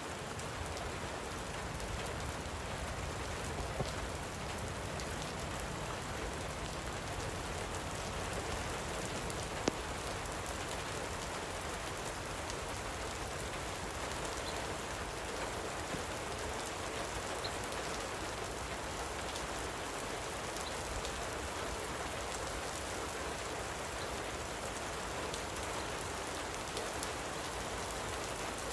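Steady light rain falling, an even hiss with many fine drop ticks. A sharper single tick about ten seconds in.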